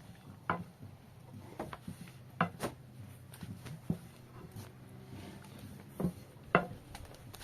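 A handful of sharp, scattered knocks and clacks, about six in all and loudest near the middle and the end, over a faint low steady hum.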